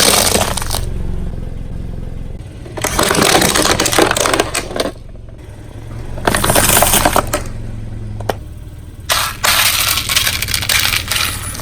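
Car tyre rolling over and crushing crunchy objects: three bursts of crackling and breaking about three seconds apart, over the car's engine running low and steady.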